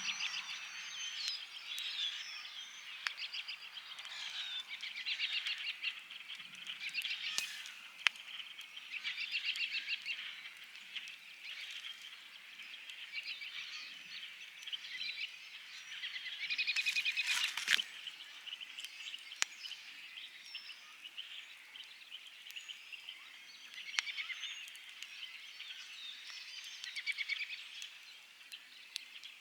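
A wood campfire crackling with scattered sharp pops, with a short burst of crackling about two-thirds of the way through. Behind it is a spring evening chorus of short pulsed trills and chirps from frogs and birds.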